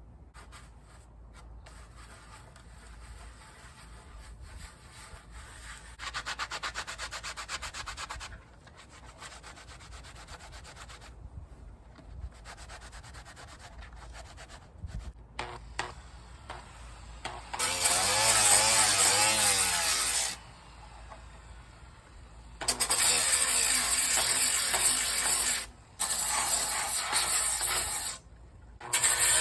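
Sanding on a 3D-printed plastic helmet: faint scratchy rubbing at first, then loud bursts of sanding from a little past the halfway point, stopping and starting several times.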